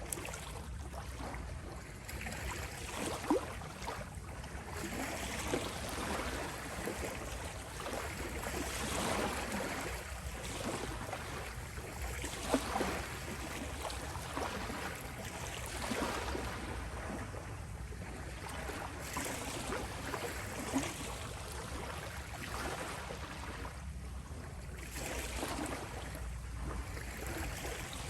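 Gentle sea waves washing in and drawing back on a shore, swelling every few seconds, with a few small splashes.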